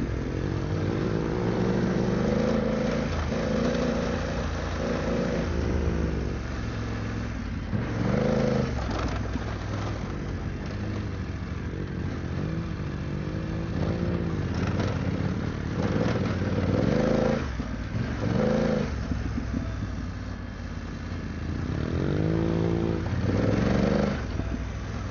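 BMW F900GS parallel-twin motorcycle engine being ridden off-road, revving up and falling back again and again as the throttle is opened and closed, over a steady rush of wind and tyre noise.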